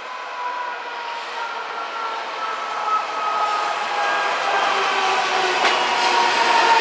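Odakyu 4000 series electric train coming closer and growing steadily louder, its IGBT VVVF inverter whining in a few steady tones that sag slightly in pitch over the rumble of the wheels. There is one sharp click near the end.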